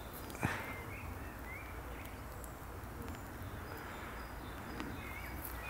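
Quiet outdoor background with a few brief chirping bird calls and a single soft click about half a second in.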